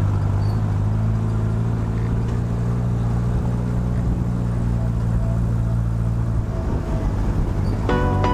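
A motor vehicle's engine running with a steady low hum. Plucked musical notes come in near the end.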